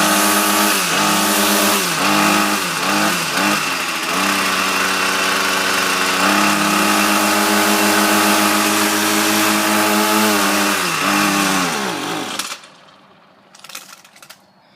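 Ryobi gas string trimmer engine running on a cold start, its pitch sagging and recovering several times, then steadier, before it slows and dies about twelve seconds in. It bogs when given throttle and stalls: a cold engine that won't stay running.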